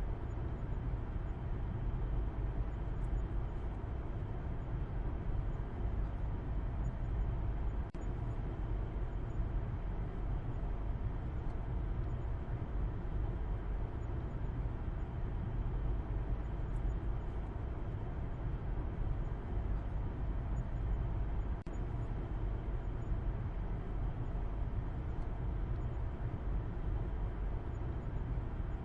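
Steady low rumble and hiss of a car driving: engine and road noise, even throughout with no change in pitch.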